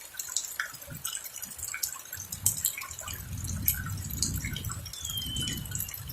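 Rain dripping and splashing in close, irregular drops, with a low rumble of thunder building from about two seconds in.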